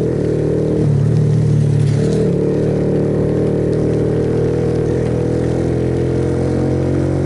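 Suzuki Yes single-cylinder motorcycle engine running steadily under way, over a constant rush of road noise. Its pitch steps at about one second in and again about two seconds in.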